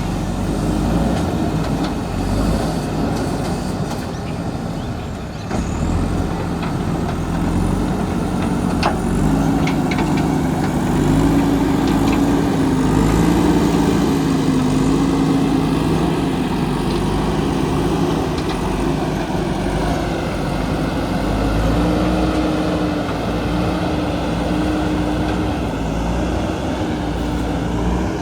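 Diesel engine of a JCB backhoe loader running under working load. Its pitch rises about nine seconds in and settles lower again around twenty seconds in, with a few short knocks along the way.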